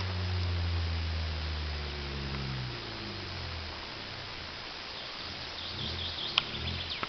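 Honda Civic's 1.3-litre D13B2 four-cylinder engine running with no muffler: the raw exhaust note sinks slightly in pitch and dies away over about three seconds. It leaves a faint hiss with a few high chirps and a single click near the end.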